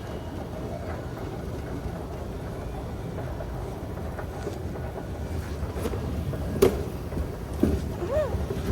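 Steady low rumble of street traffic, with a single sharp knock about two-thirds of the way through and a few short squeaks near the end.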